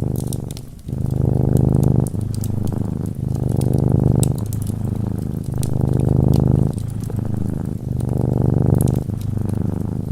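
Domestic cat purring close up, a steady low rumble that swells and dips with each breath about every second or so. Light crackles of a fireplace are scattered over it.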